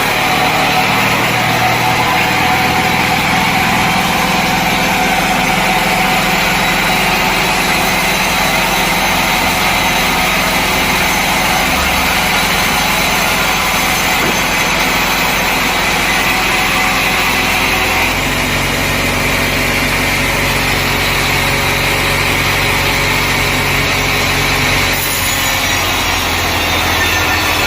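Sawmill machinery running steadily: an engine note with saw noise over it. The engine's note shifts about 18 seconds in and again around 25 seconds.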